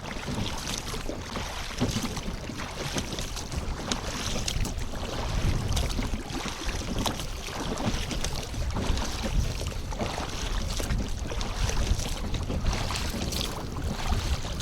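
Wind buffeting the microphone on an open boat, with water lapping and the odd light knock against the hull.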